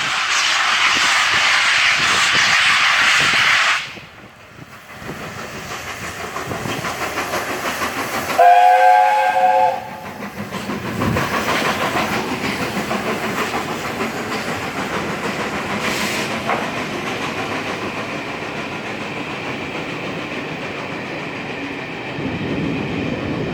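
A loud rushing noise cuts off suddenly about four seconds in. Then the steam locomotive Tornado, an LNER Peppercorn A1 Pacific, sounds its whistle once for about a second and a half and its train rolls past with steady rhythmic wheel clatter.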